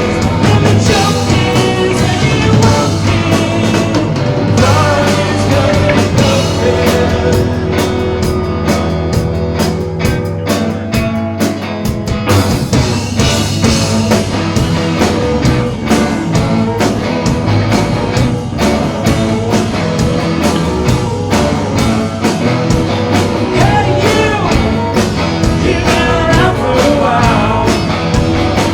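Live rock band playing loudly, with drum kit, guitar and bass, and a singer.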